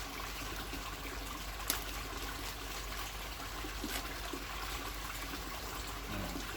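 Steady trickle of running water, with two small sharp clicks.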